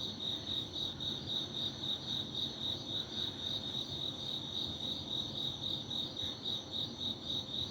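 Crickets chirping: a steady, rapid, evenly pulsing high chirp that keeps on without a break.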